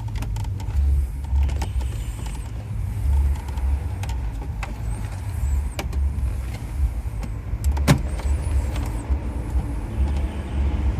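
Scattered plastic clicks and knocks as a car stereo head unit and its wiring are worked into the dash, with one sharper knock about eight seconds in, over a steady low rumble.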